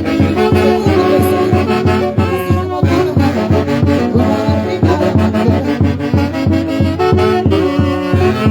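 Live band music: horns play sustained melody lines over a steady thumping bass beat of about three beats a second.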